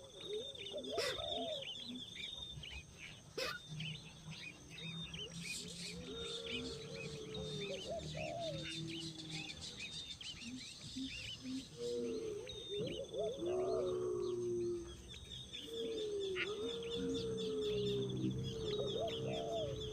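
Several birds calling: a steady stream of quick high chirps, mixed with lower, longer calls that come and go every few seconds.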